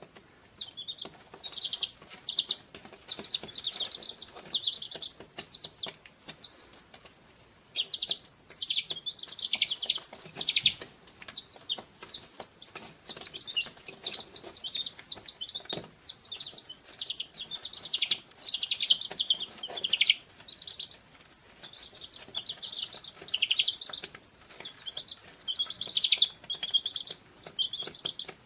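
Many small birds chirping and twittering together in a dense, unbroken chorus of quick, high trills, thinning briefly about a third of the way in.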